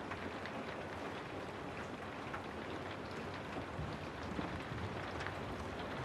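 Steady rain with scattered drops ticking on a surface, over a low rumble that grows stronger about four seconds in.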